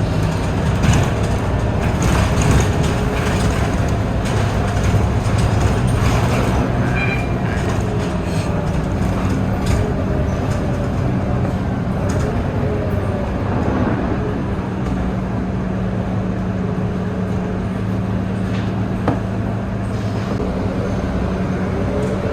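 Scania K230UB city bus's diesel engine running under way, its drone shifting in pitch as the bus speeds up and slows, with scattered rattles and clicks from the bus.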